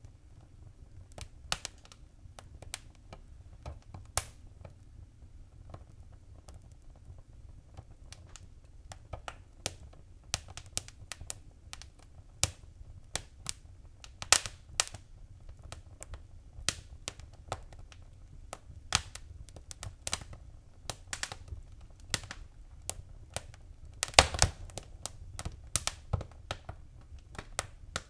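Wood fire crackling in a fireplace: irregular sharp pops and snaps over a low steady rumble, with a burst of louder pops about 24 seconds in.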